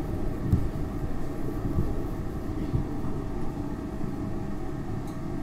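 Inside a SEPTA Market-Frankford Line elevated train car: steady rumble of the wheels on the track with a faint steady hum, easing off slightly as the train slows into a station.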